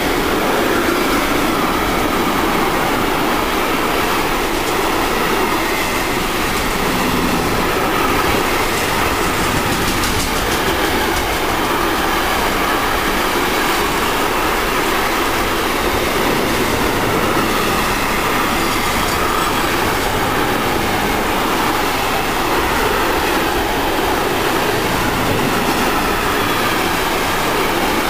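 Container freight train's wagons rolling past at close range: a loud, steady rumble and rattle of wheels on the rails that continues unbroken throughout.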